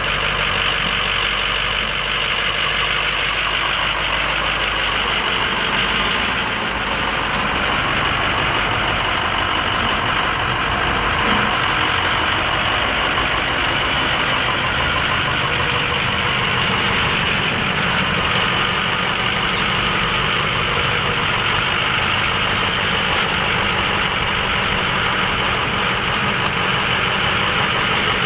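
Ford F-350 pickup's engine idling steadily, with no revving.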